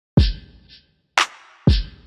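Intro music: a sparse electronic drum beat, three hard hits with gaps of silence between.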